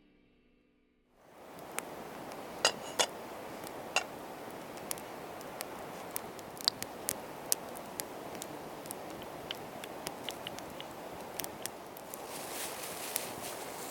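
Wood campfire crackling: a steady low hiss with irregular sharp pops and snaps. Near the end a brighter sizzle joins in.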